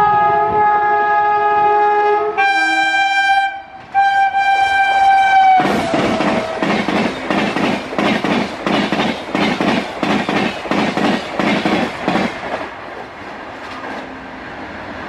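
A WAP-7 electric locomotive sounds its horn in long blasts, with a short break about three and a half seconds in; the horn's pitch drops as the locomotive passes. Then the double-decker coaches rush by at high speed with a rhythmic clatter of wheels over rail joints, about two knocks a second, which dies away near the end.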